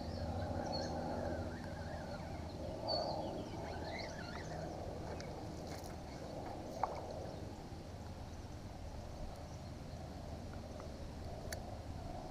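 Quiet outdoor ambience from a kayak on the water: a low steady wash with faint water sounds, a few faint high chirps in the first few seconds, and one sharp click about seven seconds in.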